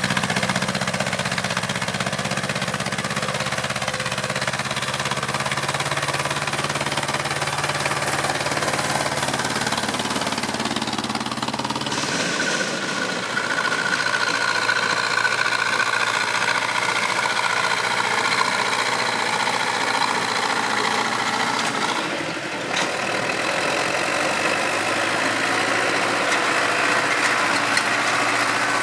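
Tractor diesel engine running steadily. Its note changes about twelve seconds in, and the sound dips briefly near twenty-two seconds before carrying on.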